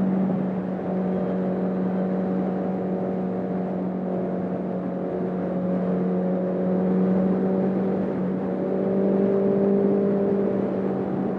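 Honda CB650R's inline-four running through a full Akrapovic exhaust with the dB killer removed, held at a steady, even pace with only small changes in engine speed.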